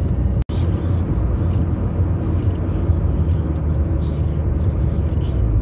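Steady low rumble of a moving car heard from inside the cabin: engine and tyre road noise. The sound cuts out for an instant about half a second in.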